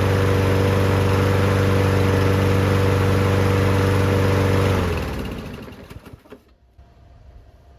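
Briggs & Stratton engine on a Toro lawn mower running steadily on its warm-up run, then shut off about five seconds in, its pitch falling as it spins down to a stop.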